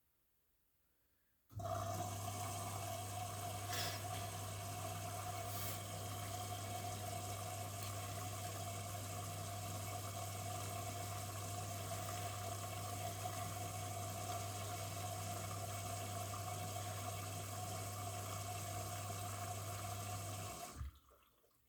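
Miele W1 washing machine drawing water in at the start of its wash cycle: a steady rush of water with a low electrical hum, starting suddenly about a second and a half in and cutting off near the end.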